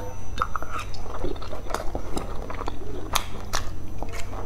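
A person biting and chewing boiled dumplings: wet mouth sounds with many irregular sharp smacks and clicks.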